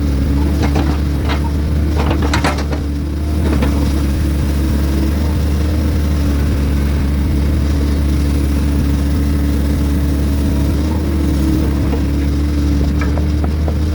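Heavy diesel engine of an excavator or log truck running steadily with a low drone, with a few knocks in the first few seconds.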